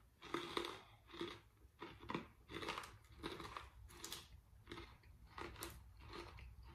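A person chewing a hard, crunchy black sesame fried dough twist with the mouth closed: a steady run of dry crunches, about two a second.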